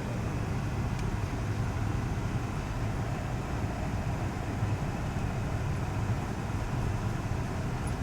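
Steady low drone of engine and road noise inside the cab of a soft-top four-wheel-drive vehicle driving slowly on snowy roads.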